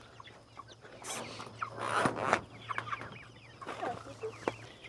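Poultry clucking and peeping in short scattered calls, with a couple of light knocks about one and two seconds in.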